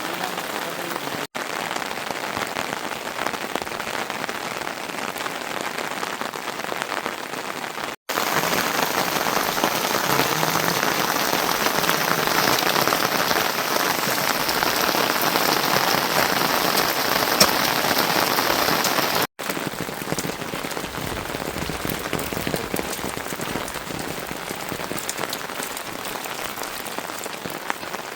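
Steady rain falling. It is louder and brighter between about eight and nineteen seconds in, and three very short drop-outs break the sound.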